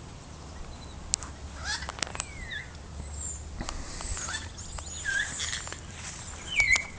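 New Zealand kaka parrots calling in the trees: scattered short whistles and squawks, the loudest a rising call near the end.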